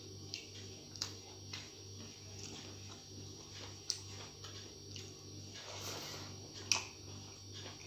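A person eating: chewing with scattered wet mouth clicks and lip smacks, the loudest click near the end, over a steady low hum.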